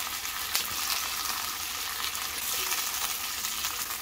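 Poblano and jalapeño chile strips sizzling and crackling in hot oil in a frying pan, while a plastic spatula stirs and scoops them, with a few short clicks from the spatula against the pan.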